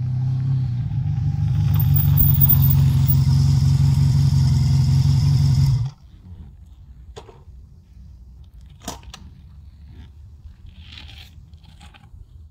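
Honda VF750F Interceptor's V4 engine running as the bike rides up over gravel, a steady drone growing louder over the first two seconds. It cuts off suddenly just before six seconds in, leaving a much quieter low rumble with a few sharp clicks as the motorcycle stands on its side stand.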